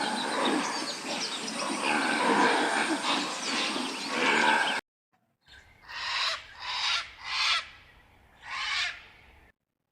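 Animal calls: a dense mix of overlapping calls for about five seconds that cuts off suddenly, then four separate short calls.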